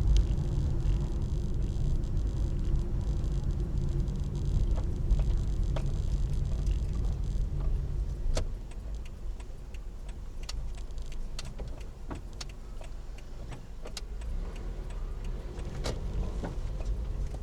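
Car running, with a steady low engine and road rumble that drops off about eight seconds in, leaving a quieter rumble with scattered clicks and knocks.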